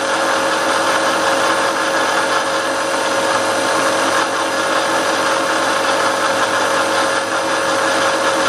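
Milling machine running steadily with a single steady whine over its noise, the cutter taking a side cut along the edge of a block.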